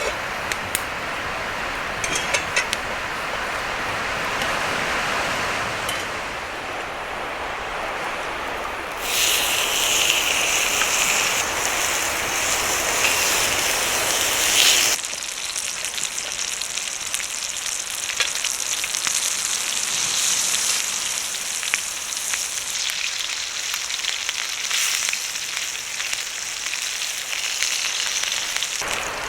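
Food sizzling and frying in a pan over the fire, a bright crackling hiss that sets in about nine seconds in. Before that there is a steady rushing noise.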